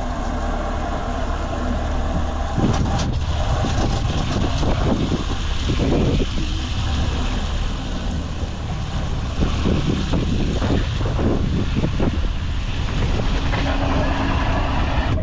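A boat's outboard motor running steadily underway, a constant low drone, with wind gusting on the microphone.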